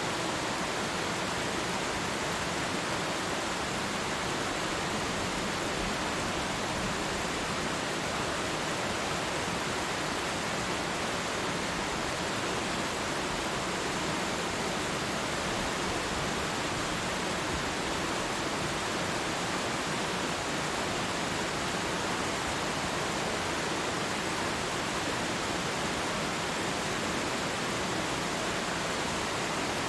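Waterfall: water falling in a steady, unchanging rush.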